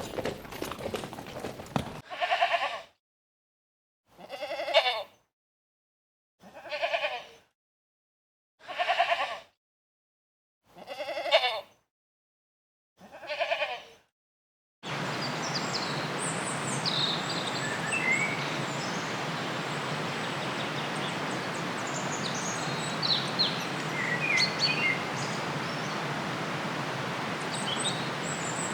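Six separate bleats, each about a second long and about two seconds apart, with silence between them. About halfway through they give way to a steady outdoor hiss with brief high bird chirps.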